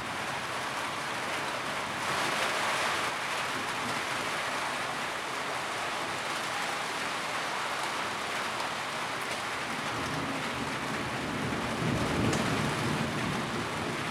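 Steady rain drumming on a tin roof. A low rumble swells about ten seconds in and fades near the end.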